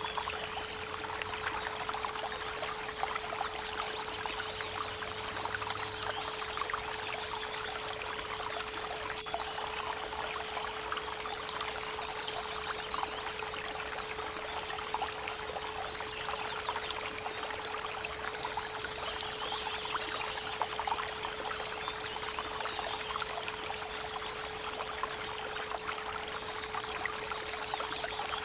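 Creek water running steadily, with a continuous 432 Hz pure tone beneath it. Birds sing a few short trilled phrases now and then, near the start, about a third of the way in and near the end.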